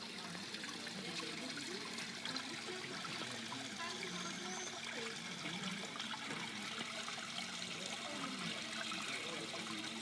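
Small ornamental waterfall splashing steadily into a goldfish pond.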